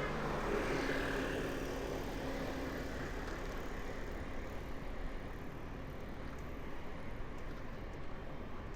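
City street traffic heard from a moving bicycle, a steady rush of engine and road noise. A motor vehicle passes close in the first couple of seconds, then the noise settles to a steady level.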